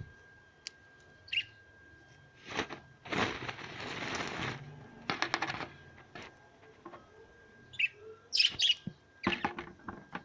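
A pet parrot giving short high chirps, a few seconds apart and bunched near the end, with a burst of rustling noise lasting over a second about three seconds in and quick clicking sounds after it.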